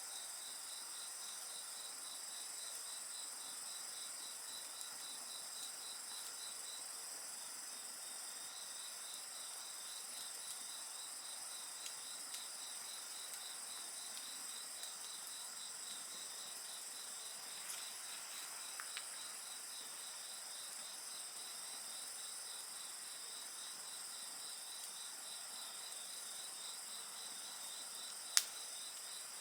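A chorus of crickets trilling steadily, one of them in a quick pulsing chirp, with a few faint crackles from a wood fire and one sharp pop near the end.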